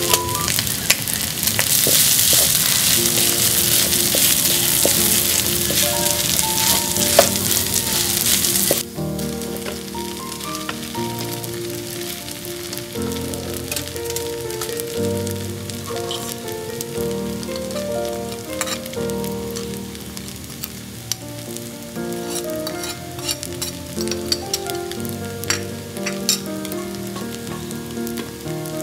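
Corned beef and scrambled egg frying in a hot wok, a loud steady sizzle under gentle piano music. About nine seconds in the sizzle drops away sharply, leaving the piano over a faint crackle and a few light clicks.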